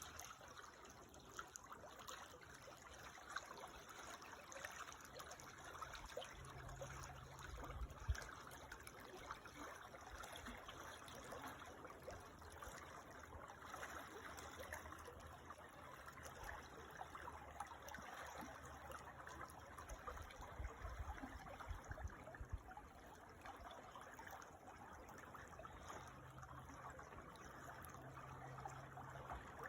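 Creek water trickling steadily and faintly, with a few brief low rumbles.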